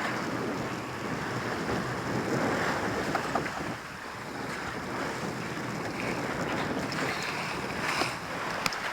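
Wind buffeting the microphone over sea water washing against a sailboat, with a couple of brief clicks near the end.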